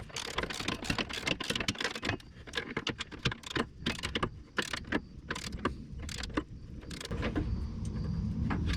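Loose steel bolts, washers and a bracket clinking and rattling as they are handled and threaded in by hand. A low rumble builds near the end.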